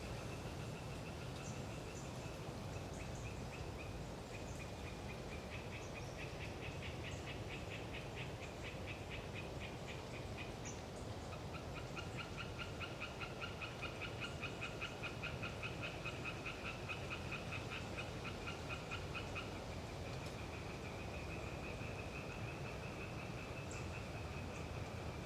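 Hyla orientalis tree frogs calling in long trills of rapid pulses, swelling to a loud stretch in the middle, over steady wind noise. A few faint, short high-pitched chirps come in now and then.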